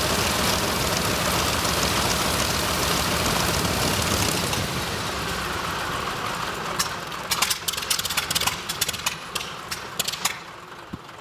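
Zero fighter's original Sakae 21 fourteen-cylinder radial engine running steadily, then being shut down. The sound weakens from about four seconds in and breaks into irregular pops and clatters as the engine runs down, then dies away near the end.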